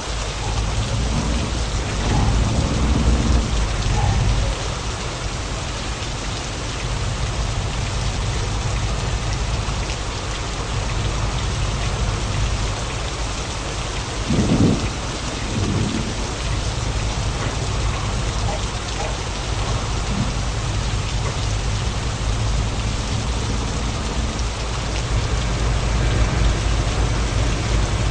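Heavy truck driving: a steady low engine drone under a constant rush of road and tyre noise, with two brief knocks about halfway through.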